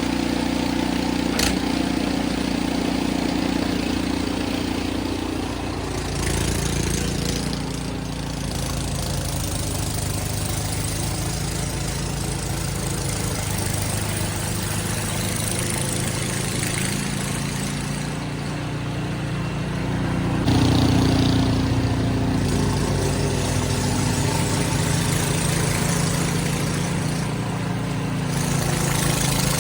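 Ariens snow blower's gasoline engine running steadily throughout. Its note shifts a few times, and it gets louder about two-thirds of the way through as the load changes.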